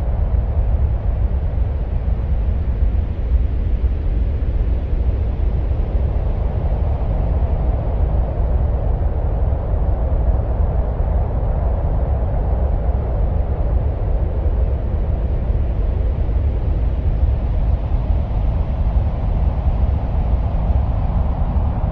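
Steady, deep wind-like rumble with a hiss in the middle range that swells and fades slowly, presented as the sound of Mars.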